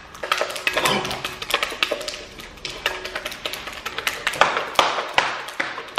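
Quick, irregular clicking and tapping of a stirring utensil against a bowl as glue slime is mixed.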